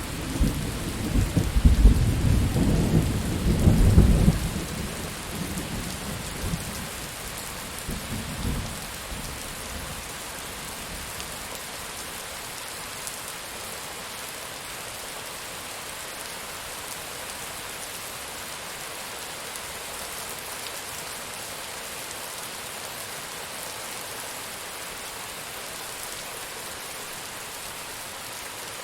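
Thunder rumbling loudly over steady rain, dying away over the first few seconds with a last fainter roll near eight seconds in, then steady rain falling alone.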